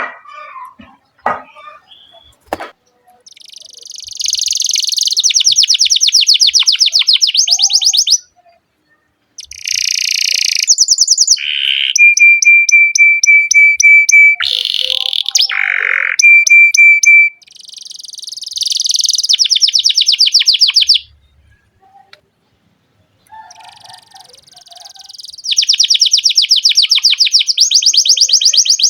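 Domestic canary singing: phrases of very fast rolling trills, broken by two long steady whistled notes around the middle and by short pauses between phrases.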